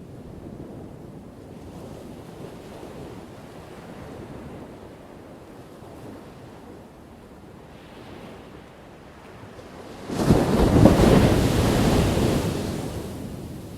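Ocean surf: a low, steady wash of water, then a wave breaks suddenly about ten seconds in with a loud crash that fades away over a few seconds.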